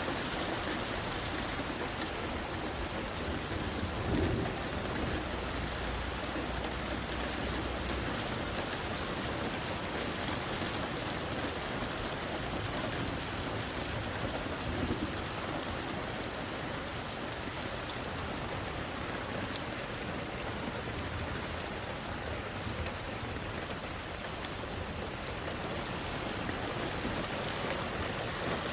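Steady rain falling, with a low rumble of thunder about four seconds in.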